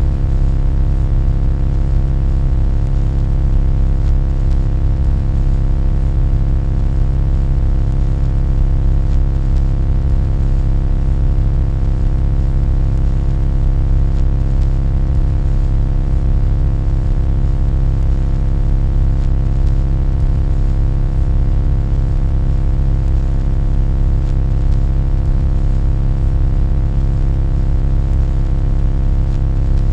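A loud, steady low hum with a stack of evenly spaced overtones, never changing in pitch or level.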